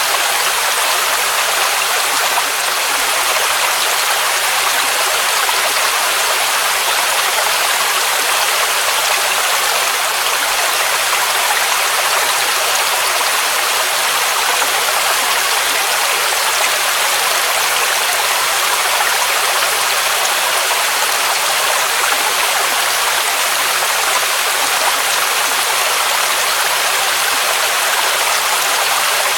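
Mountain waterfall rushing steadily: a constant, even hiss of falling water, with little low rumble.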